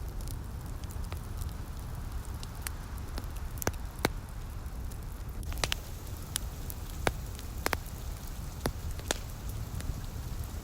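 Wood fire crackling, with sharp pops about once a second among fainter ones, over a steady low rumble and a soft rain-like hiss.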